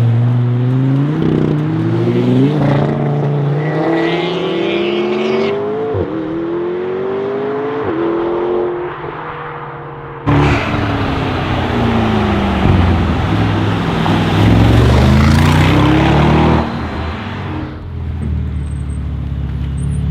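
Mercedes-AMG G63's V8 through an Akrapovic exhaust accelerating hard through the gears, its pitch climbing and then dropping back at each of several upshifts. About halfway through it cuts to a louder passage where the engine note falls and then rises again as it pulls away.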